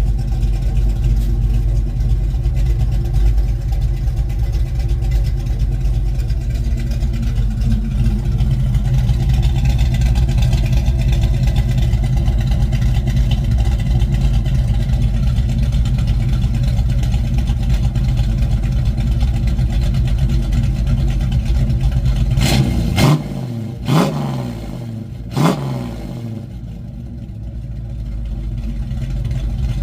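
1972 Ford Mustang Mach 1 V8 with a Crane cam, running steadily through a single 3-inch exhaust with a Black Widow Race Venom muffler. About two-thirds in come three sharp pops a second or so apart; the engine note then drops and builds back up.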